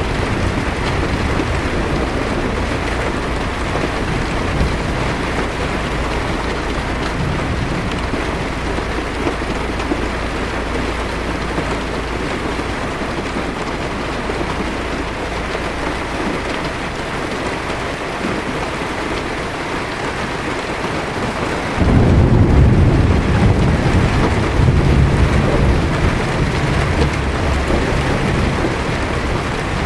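Heavy rain falling steadily on a car's roof and windshield, heard from inside, with a low thunder rumble that fades away. About two-thirds of the way through, a loud roll of thunder comes in suddenly.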